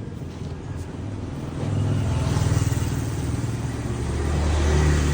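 Street traffic: a passing motor vehicle's engine grows louder about a second and a half in, and a second engine swells louder near the end.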